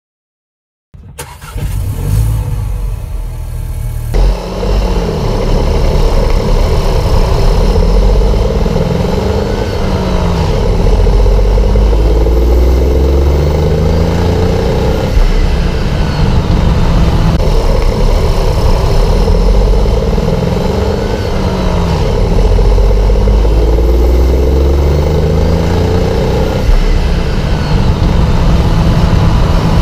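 Volkswagen Polo's 1.0-litre turbocharged three-cylinder, 12-valve petrol engine, heard close up from inside the engine bay. It comes in about a second in, changes character at about four seconds, and then is revved up and let drop back repeatedly, its pitch rising and falling about every five seconds.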